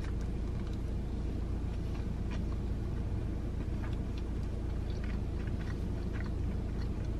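A person chewing a mouthful of a tortilla wrap, with faint scattered clicks and mouth sounds, over a steady low hum inside a car.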